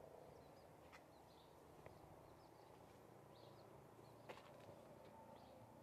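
Near silence: faint outdoor ambience with a few faint bird chirps and two soft clicks.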